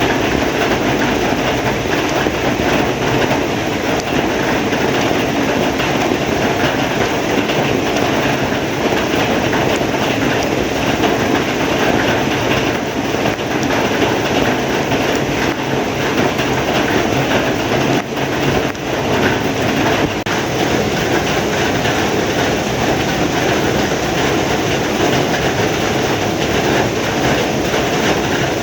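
Heavy rain falling steadily, a loud, dense, even patter.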